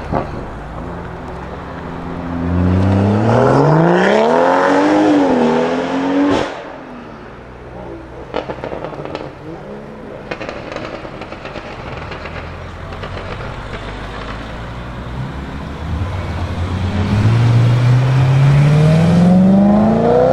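BMW M car's engine accelerating hard: its exhaust note climbs in pitch for about four seconds and cuts off with a sharp crack. After a quieter stretch, a second long rising pull begins near the end.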